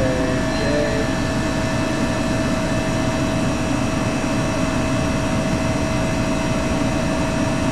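Hoshizaki KM-1600 ice machine running steadily in its freeze cycle, its newly replaced compressor and fans making an even mechanical noise with a steady hum over it.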